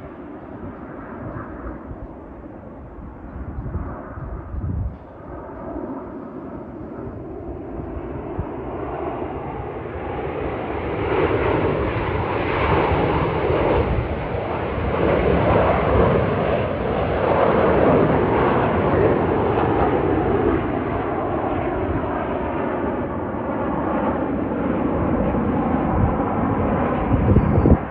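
Jet noise from Aermacchi MB-339 jet trainers flying past in formation. The roar swells from about eight seconds in and stays loud for the rest.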